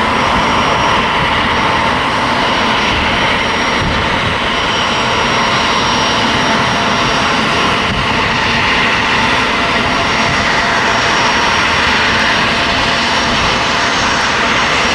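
Turbofan engines of a United Express CRJ regional jet running steadily: a loud, even rushing noise with a thin high whine on top.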